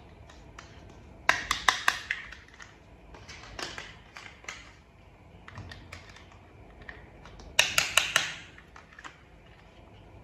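Small hard plastic toy parts being handled and clicked together: two quick runs of about five sharp clicks, one just over a second in and one past the middle, with lighter taps and rattles between.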